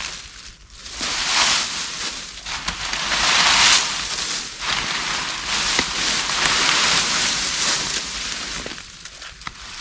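Dry leaf debris and brush rustling and crunching in swelling waves, with a few light cracks of sticks.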